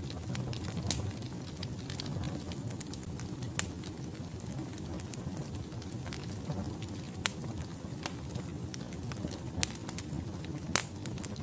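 Wood fire burning in a fireplace: a steady low rumble of flames under frequent small crackles, with a few louder sharp pops from the logs.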